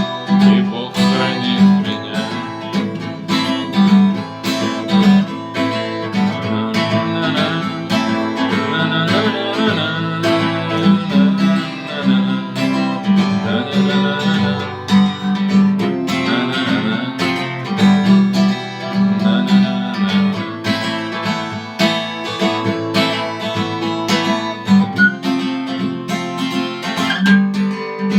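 Guitar strummed in a steady rhythm, playing the instrumental ending of a song with no singing.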